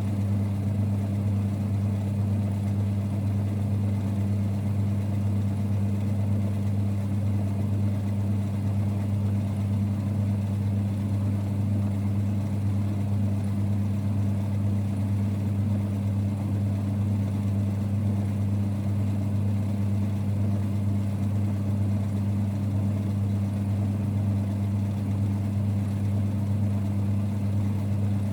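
1946 Boxford lathe running with a steady low rumble that stays even throughout, with no knocks or changes in speed.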